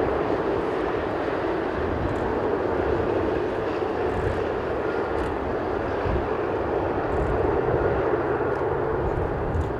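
Steady jet engine noise from a Boeing 777-300ER's GE90-115B turbofans during its takeoff, with an uneven low rumble of strong wind buffeting the microphone.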